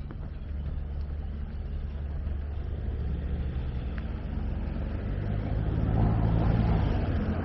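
A motor vehicle's engine running steadily with a low hum, growing louder and closest about six seconds in as it passes.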